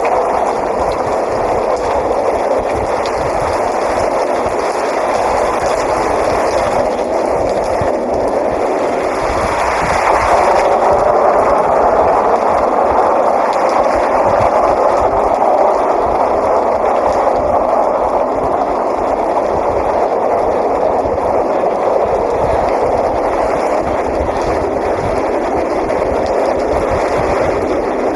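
Steady heavy rain, an even, unbroken rush of noise that swells a little about ten seconds in.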